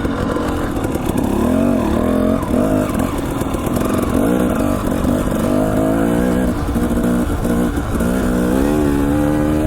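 Dirt bike engine running under way, its pitch rising and falling repeatedly as the throttle is worked, with wind rumbling on the microphone.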